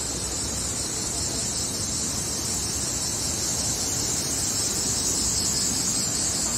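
Steady rushing of the Manavgat Waterfall's water pouring over its cascade, an even hiss-like roar with no breaks.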